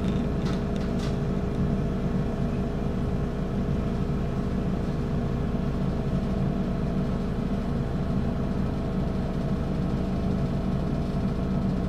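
Steady hum of a stationary electric train's onboard equipment, heard from inside the car while it waits to depart, with a few light clicks about a second in.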